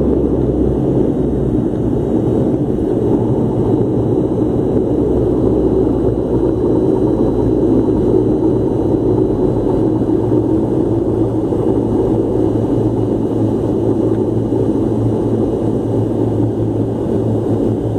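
Steady engine rumble and hum inside an airliner's cabin as the plane rolls along the runway just after landing.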